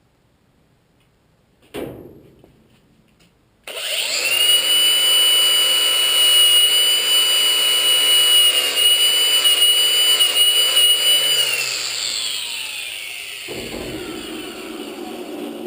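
A knock, then a power tool starts about four seconds in and runs at a steady speed with a high whine. Near the end its pitch falls as it winds down, while a lower rough noise takes over.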